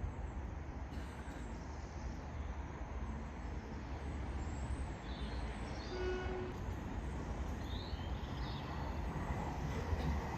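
Manchester Metrolink tram approaching on the line, a low steady rumble that slowly grows louder, with a short tone about six seconds in and a few faint high chirps.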